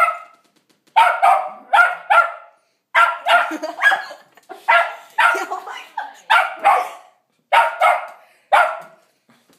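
Dog barking repeatedly and loudly in quick bursts of two or three barks, about fourteen in all.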